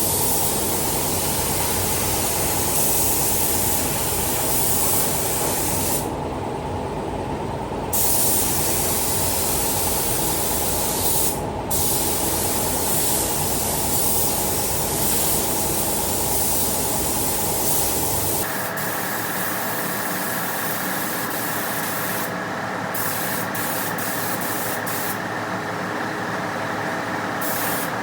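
Compressed-air paint spray gun hissing in long passes, with brief stops where the trigger is let off, spraying an epoxy sealer coat. A steady low hum runs beneath it. About two-thirds of the way in, the sound changes abruptly: the low hum drops away while the spraying goes on with more frequent short stops.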